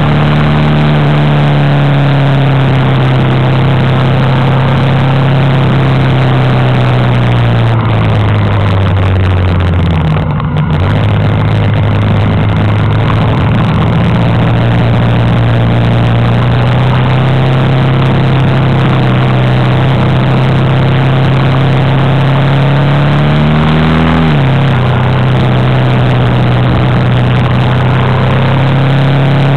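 Honda Africa Twin's V-twin engine heard on board at riding speed, over a steady rush of wind and road noise. The engine note sinks over the first several seconds and breaks briefly about ten seconds in. It then climbs steadily and drops abruptly about three-quarters of the way through.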